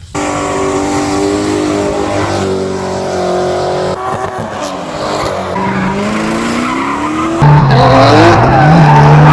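Drift car engines revving, rising and falling in pitch, with tyres squealing; the sound changes abruptly about four seconds in and again near the end, where a louder, lower engine comes in.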